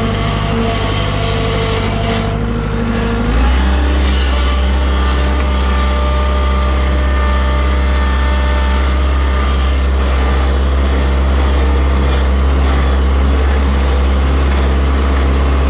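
John Deere 70 skid steer's glow-plug diesel engine running steadily. About three and a half seconds in, its note shifts lower and gets a little louder, then holds.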